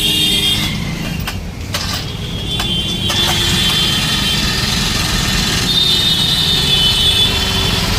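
Small four-stroke petrol engine of a portable spray machine running steadily, getting louder about three seconds in.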